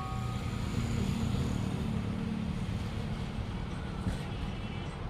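Steady low engine rumble, like a vehicle idling, with a faint click about four seconds in.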